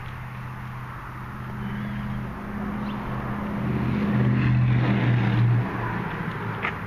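A 2000 Chevy Tahoe's 5.3L V8 idling steadily. It grows louder through the middle and drops back shortly before the end.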